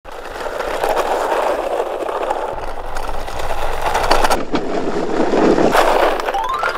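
Small toy minicars and a toy truck rolling over a plastic playset, a continuous rattling whir of little wheels with many small clicks. A short rising tone comes in near the end.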